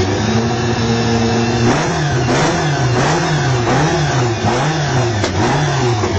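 A supercar engine held at a steady fast idle, then revved in quick repeated throttle blips, its note rising and falling about six times in a regular rhythm, before the sound cuts off suddenly.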